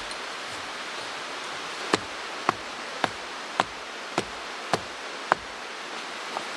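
Steady rush of a mountain stream, with a run of seven sharp, evenly spaced knocks, a little under two a second, starting about two seconds in.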